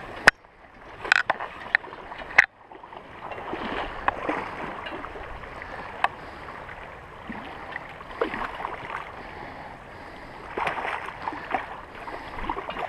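Shallow stream water splashing and sloshing around a small hooked coho salmon as it is landed, with a few sharp knocks in the first two and a half seconds.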